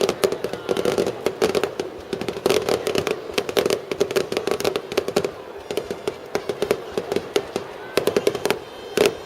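Aerial fireworks going off in rapid succession: many sharp bangs and crackles a second, with no break.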